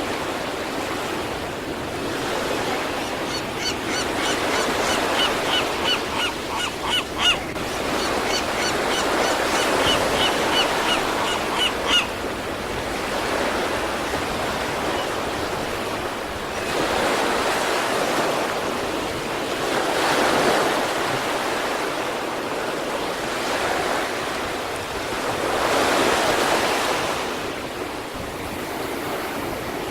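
Ocean surf breaking and washing in, swelling several times. Between about 4 and 12 seconds in, a bird calls over the waves in a run of short repeated notes.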